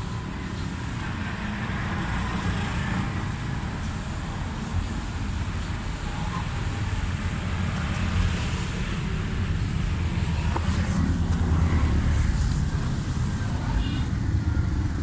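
Steady low rumble of motor vehicles running, getting a little louder in the second half.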